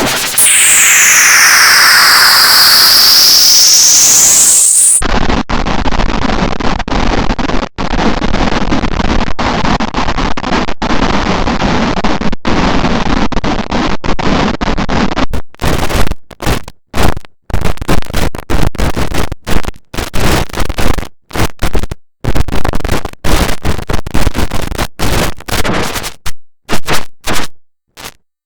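Heavily distorted, digitally processed logo audio that plays as a harsh, loud wash of noise. For the first five seconds it swoops down in pitch and back up. It then switches abruptly to a dense, gritty roar. Past the halfway point it breaks into rapid stuttering cuts on and off.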